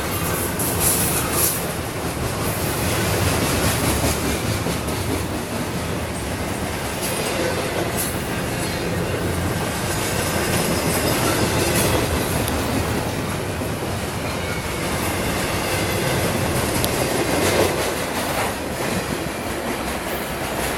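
Norfolk Southern intermodal freight train rolling past: a steady rumble of steel wheels on rail with occasional sharp clicks.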